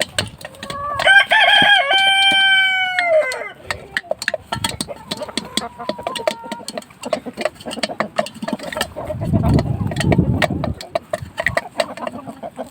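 A rooster crowing once about a second in, one long call that drops in pitch at the end, among chickens clucking throughout. A brief low rustling noise comes about nine seconds in.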